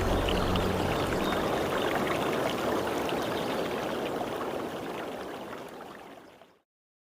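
Rain white noise: a steady rushing hiss of falling water, with a low hum beneath it that dies away in the first second. The hiss fades down and stops dead about six and a half seconds in.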